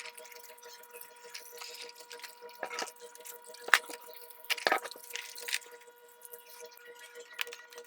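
A few scattered clicks and knocks, like small parts being handled, the sharpest a little under four seconds in, over a faint steady hum.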